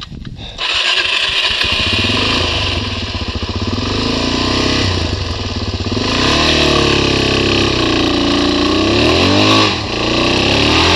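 Dual-sport motorcycle engine cutting in abruptly about half a second in, then running hard over rough ground, its pitch rising and falling repeatedly as the throttle is worked, with a brief drop near the end.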